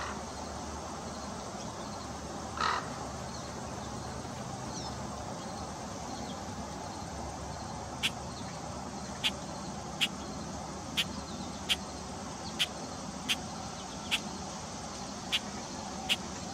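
One loud, short bird call about three seconds in, over steady outdoor background noise; from about eight seconds on come sharp clicks, roughly one a second.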